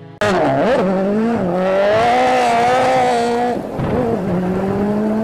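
Subaru WRX's turbocharged flat-four engine pulling hard under acceleration, its pitch rising. The sound breaks off briefly about three and a half seconds in, then a second run rises steadily again.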